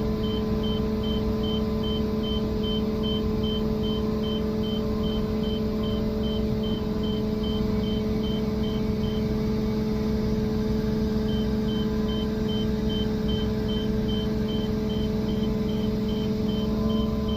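Crane's engine running steadily under a rapid high electronic warning beep, about three beeps a second. The beeping stops for about two seconds around the middle, then resumes.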